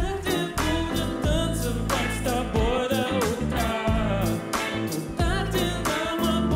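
A solo singer performing a pop ballad with vibrato over a backing band, with steady bass and a regular drum beat.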